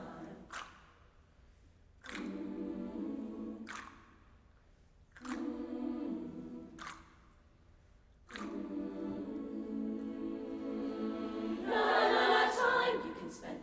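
A cappella vocal harmony: layered voices holding long sustained chords without clear words, three held chords with short gaps between them, the last one swelling louder near the end.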